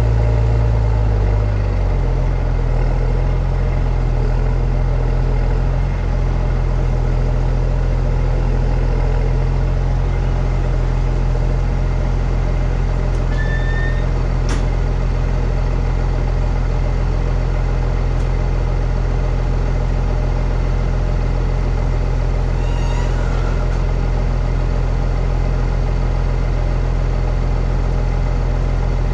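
New Holland T7.210 tractor's six-cylinder diesel engine running steadily. Its engine note shifts slightly about a second and a half in, then holds an even drone. There are a couple of faint short chirps and a single click about halfway through.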